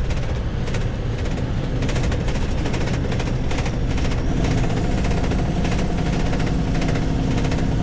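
Kenworth semi truck's diesel engine running, heard inside the cab, with a rapid rattling clatter throughout; about halfway through a steadier engine hum sets in.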